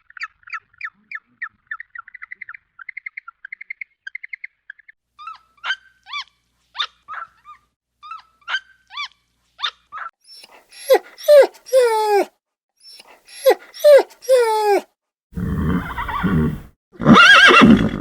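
A series of animal calls. Quick high chirps run for about five seconds. Then come spaced calls that slide downward in pitch, and from about ten seconds in they grow louder and reach lower. Near the end there is a sudden change to a louder, rough, noisy sound.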